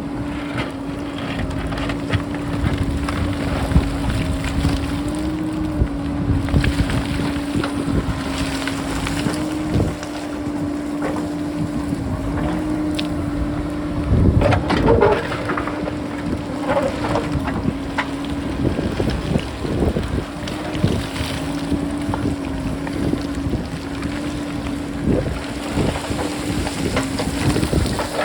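JCB backhoe loader's diesel engine running with a steady drone, with wind buffeting the microphone and scattered knocks and clatter of rock, loudest about halfway through.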